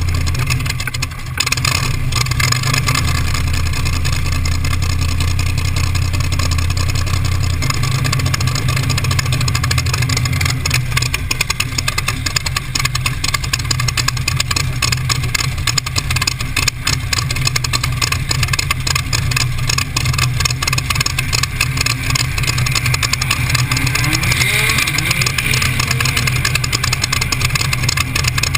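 T-bucket hot rod's engine running at low revs, with the revs climbing near the end.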